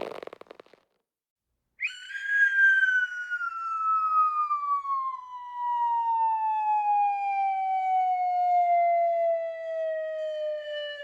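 Cartoon falling whistle: one long whistled tone that starts about two seconds in and glides slowly and steadily down in pitch, still descending at the end.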